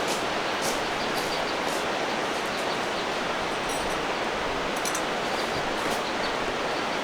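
Steady rushing of a mountain stream, with a few faint, high bird chirps near the middle.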